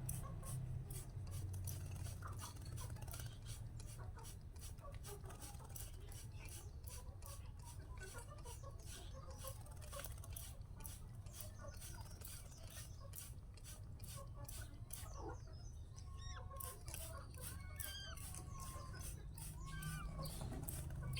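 Rapid, regular spattering of water, about three spatters a second, as a pet long-tailed shrike (cendet) is given its bath, over a steady low hum. Short chirping bird calls come in over the second half.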